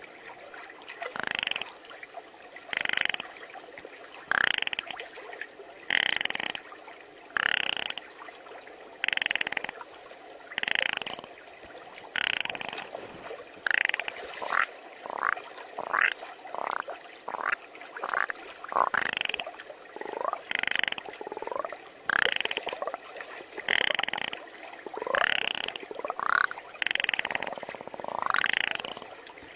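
A person imitating frog croaks with their voice: short croaks repeating about every second and a half, with a run of quicker rising chirps in the middle.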